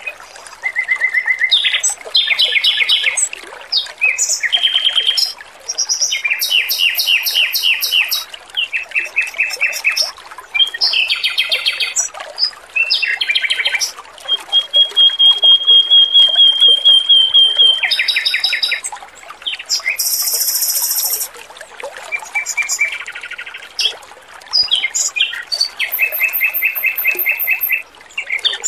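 Male Pekin robin (red-billed leiothrix) singing in loud, rapid, varied phrases of trills and chirps, with a long steady trill a little after halfway, over a faint trickle of running water.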